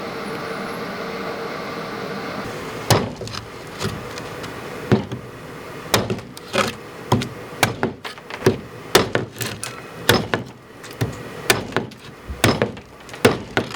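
A steady hum at first, then from about three seconds in a run of sharp, irregular knocks, roughly one or two a second, each with a short ring.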